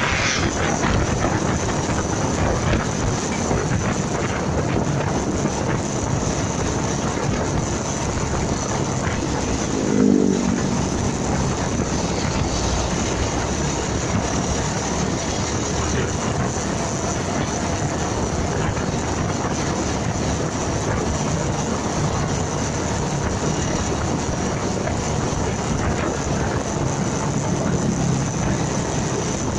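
Steady wind rush on the microphone with road and engine noise from a moving motorcycle. About ten seconds in comes a brief, louder tone that falls in pitch.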